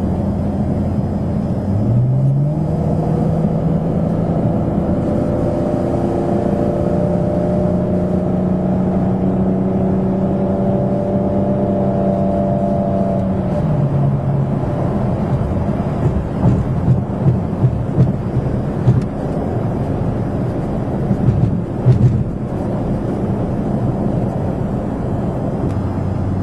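V6 Dodge Charger with a Magnaflow dual exhaust, heard from inside the cabin. It is cruising at first, then accelerates hard about two seconds in: the exhaust note climbs and holds high for several seconds, then drops back about halfway through. Several short thumps come later.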